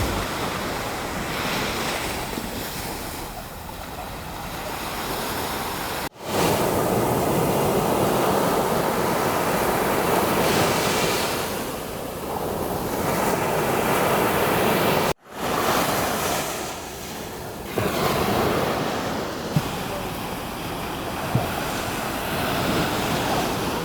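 Sea waves breaking and washing up on a beach, the surf swelling and ebbing, with some wind on the microphone. The sound drops out abruptly twice for a split second, about six and fifteen seconds in.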